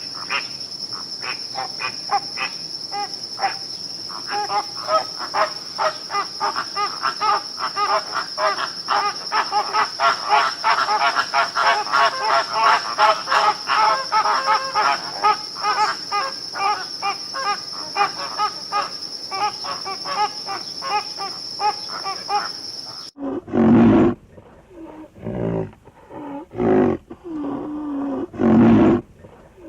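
Insects calling: a steady high whine with a fast, rhythmic chirping over it. About 23 seconds in this cuts off suddenly and a big cat roars several times in loud, separate calls.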